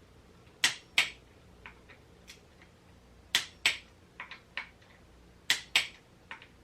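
Sharp clicks in pairs, three pairs about two and a half seconds apart with faint ticks between them. This is a clicker torque wrench breaking over at its set torque on the fork's clamp bolts.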